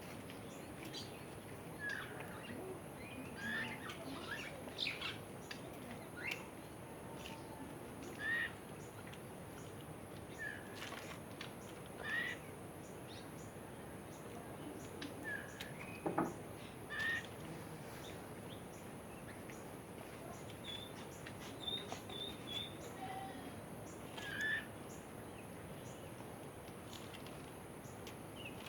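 Wild birds calling: scattered short chirps and whistled calls from several birds, one longer falling call about halfway through, over a steady high hiss.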